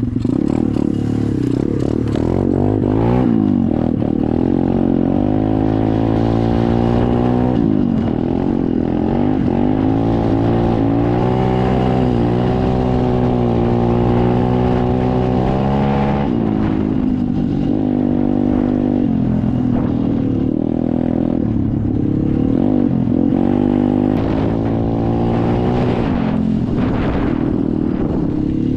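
SSR 125 dirt bike's single-cylinder four-stroke engine running while riding, its pitch rising and falling with the throttle: held fairly steady for several seconds in the middle, then repeatedly backing off and picking up again in the second half.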